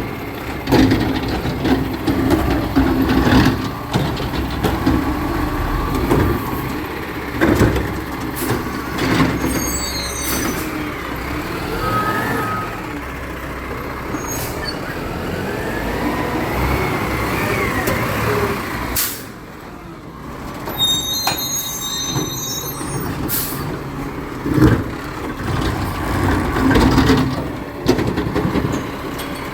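Recycling truck working close by: its engine runs steadily, with repeated loud clunks and knocks, a rising whine midway through, and high squeals twice.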